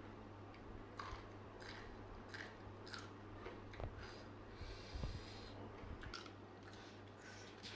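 A person chewing crunchy raw food close to the microphone, with about a dozen short crisp crunches spread through, over a steady low hum.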